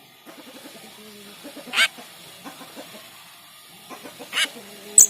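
Jalak Rio Rio starling calling: runs of short, low chattering notes broken by two loud, harsh calls about two and a half seconds apart, with a sharp click at the very end.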